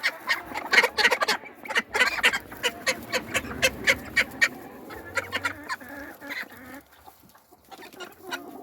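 Backyard poultry flock calling: many short clucks and calls tumbling over one another, thinning out after about five seconds.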